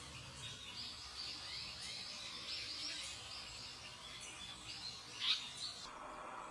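Small birds chirping in rapid, high-pitched calls, typical of chicks begging while a parent feeds them, with one louder, sharper call about five seconds in. The chirping stops abruptly near the end.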